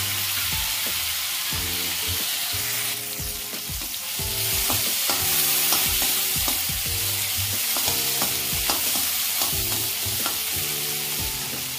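Chopped tomatoes and green chillies sizzling in ghee in an aluminium kadhai over a high flame, stirred with a perforated metal slotted spoon that scrapes and taps against the pan. The sizzle gets louder about three seconds in.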